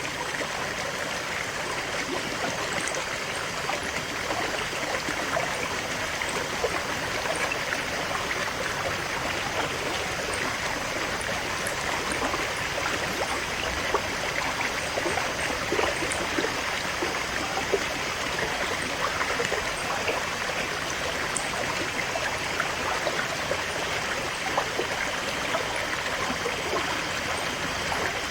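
Shallow river or stream flowing steadily over rocks, a continuous rushing with small splashes and gurgles.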